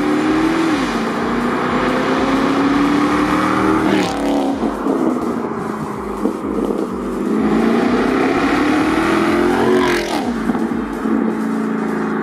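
Audi S5's V8 through an Armytrix valved aftermarket exhaust, accelerating hard through the gears: the engine note climbs steadily and drops at upshifts about four and ten seconds in, each shift marked by a sharp crack.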